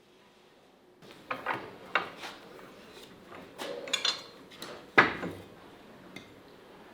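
Metal workpiece and tools being handled on a workbench: a string of irregular knocks and clinks, the sharpest about two and five seconds in, after a second of near silence at the start.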